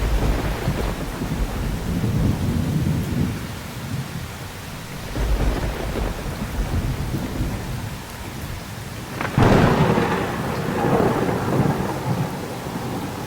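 Heavy rain falling with rolling thunder: low rumbles in the first half, then a sharp thunderclap about nine seconds in that rolls off into a long rumble.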